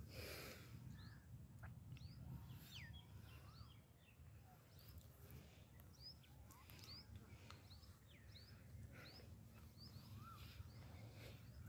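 Faint birdsong: many short chirping calls from several birds, rising and falling in pitch, over a low steady rumble.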